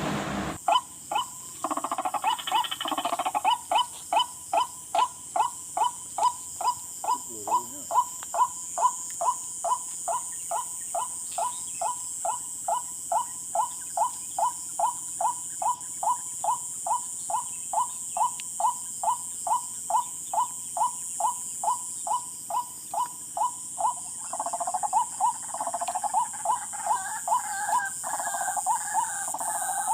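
Rail call, the bird hunted as tikling, repeated steadily about twice a second at one pitch. A denser, ragged burst of calls joins briefly about two seconds in and again for the last several seconds, over a steady high hiss.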